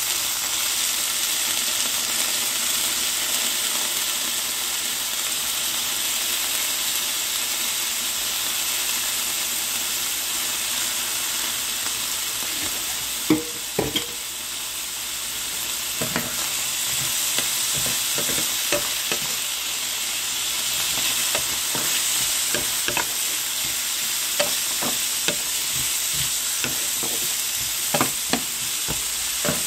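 Diced potatoes, carrots and onions sizzling in oil in a frying pan, a steady hiss. In the second half, scattered knocks of a wooden spatula stirring against the pan.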